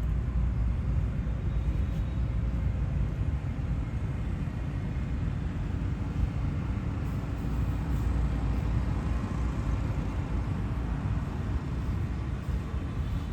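Outdoor ambient noise: a steady low rumble with no distinct events.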